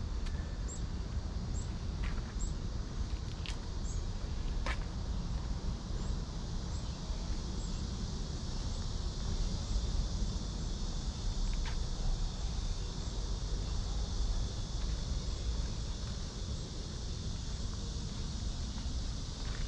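Summer woodland ambience: cicadas drone in a steady high hiss, with short high chirps repeating about twice a second in the first few seconds, over a low rumble.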